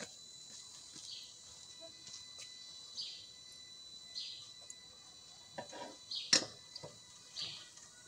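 Bird chirping in short high calls every second or two. About six seconds in comes a sharp metal clack with a few lighter knocks around it, as the chimney-cake spit is set onto the rests of the charcoal grill.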